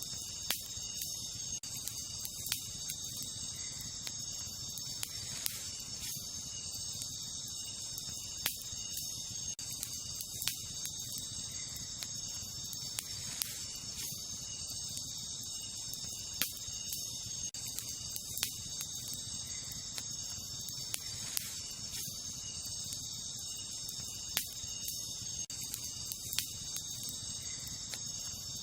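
Wood fire crackling, with sharp pops every second or two, over a steady high-pitched chorus of night insects such as crickets.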